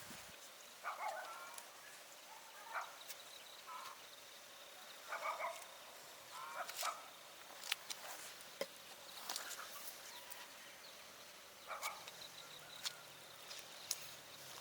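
Scattered short animal calls, about a dozen, irregularly spaced, with a few sharp clicks over a faint steady background hiss.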